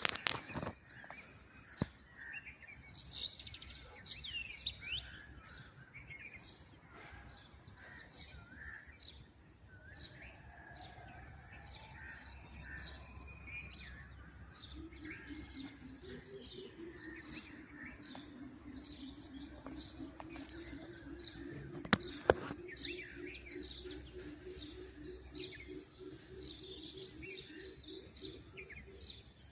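Birds chirping and calling over and over, with a steady high thin tone behind them. From about halfway a low, quickly pulsing tone joins in, and a pair of sharp knocks comes a little after that.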